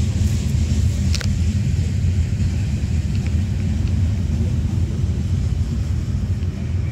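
Covered hopper cars of a freight train rolling past: a steady low rumble of steel wheels on rail, with one short sharp sound about a second in.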